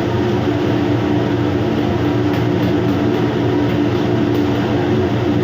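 Steady mechanical drone with an even, low hum that does not change.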